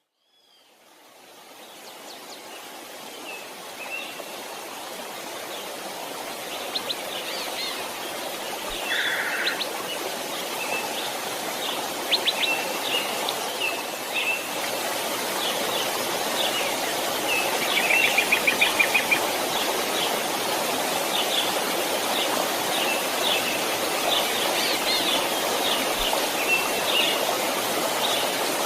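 A babbling creek fades in from silence and settles into a steady rushing flow, with songbirds calling and trilling over it throughout; a rapid trill a little past the middle stands out most.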